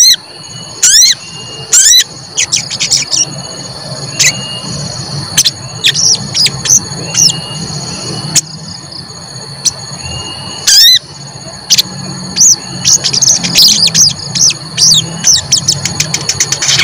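Sogon singing its sharp, high "cuit cuit" calls: loud quick chirps and downward-sweeping whistles, repeated at irregular intervals, then a fast run of chirps near the end. A steady high-pitched tone and a low hum run beneath the song.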